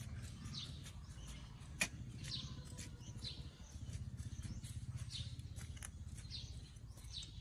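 Faint bird chirps repeating over a low, steady rumble, with one sharp click about two seconds in.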